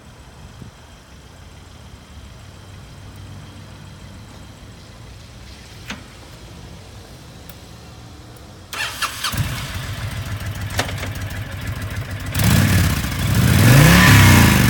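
A Honda VTX1300C's liquid-cooled V-twin is cranked and fires up about nine seconds in, after a stretch of low steady hum. It settles into a lumpy idle, then is revved up and down a couple of times near the end.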